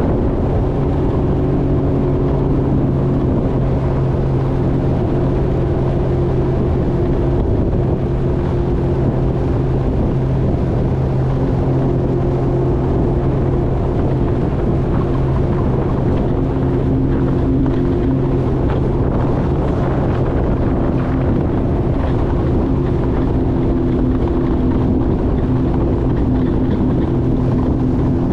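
Jet ski engine running steadily under way, its tone holding nearly even with small shifts in pitch, over rushing wind and water noise on the microphone.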